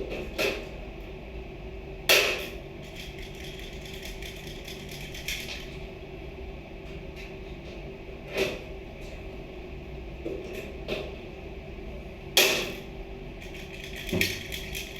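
Scattered knocks and clatters of objects being handled and set down, about five sharp hits, the loudest about two seconds in and near the end, over a steady hum.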